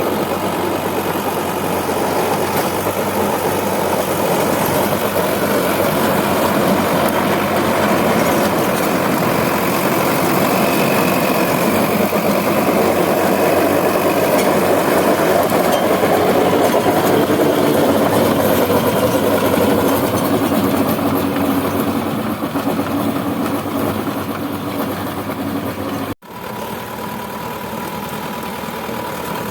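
Tractor diesel engine running steadily, with a sudden break near the end after which it runs on a little quieter.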